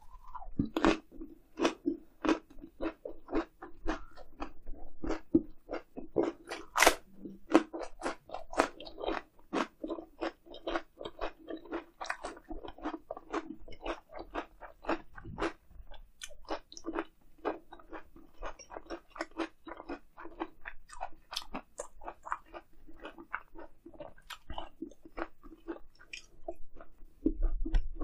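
A person chewing grilled eel wrapped in lettuce (ssam) close to the microphone, with crisp, moist crunching at about two to three bites a second. There is a dull low bump near the end.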